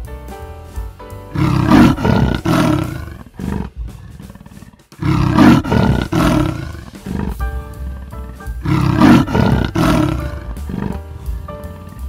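A big cat roaring three times, each roar a rough run of pulses about two seconds long, over background music.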